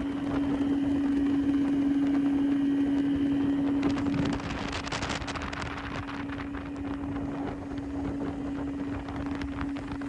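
Boat motor running with a steady hum, with wind noise on the microphone that eases off about four seconds in.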